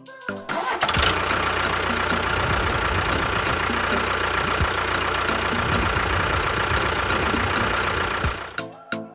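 A motor running steadily, starting about a second in and stopping near the end.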